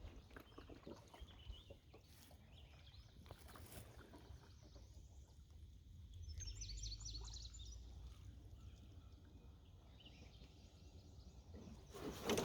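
Quiet stream ambience with a bird giving a quick run of high chirps about six seconds in. Near the end a short, loud bump that sounded like something under the canoe.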